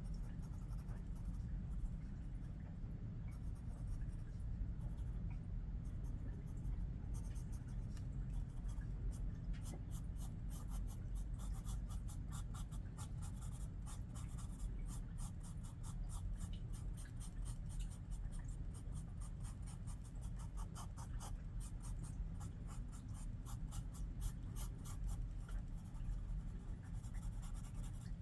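Pencil scratching on paper in many quick, short strokes, sparse at first and denser from about a quarter of the way in, over a low steady hum.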